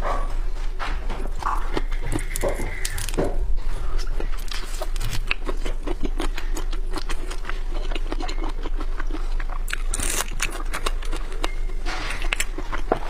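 Close-miked eating of seafood: wet smacking, chewing and crunching with a dense run of sharp clicks. A short high whine comes about two seconds in.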